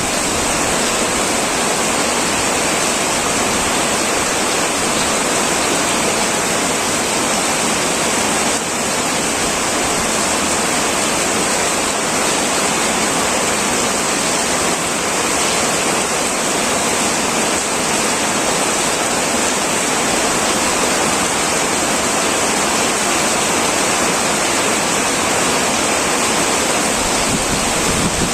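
Heavy rain falling steadily on a tin roof: a dense, even hiss with no thunder.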